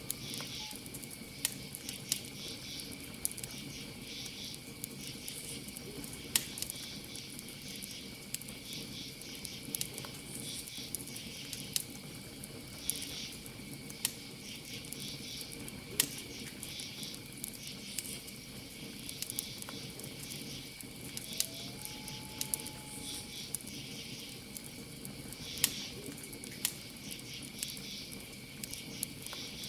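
Campfire crackling, with irregular sharp pops from the burning wood over a low steady rumble of flames. Crickets chirp steadily behind it, and a single short whistled animal call sounds about two-thirds of the way in.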